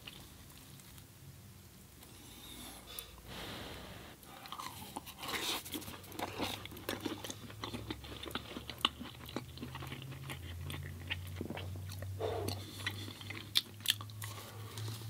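Close-up chewing and biting of food, with crunchy mouth clicks and crackles starting about four seconds in and going on irregularly.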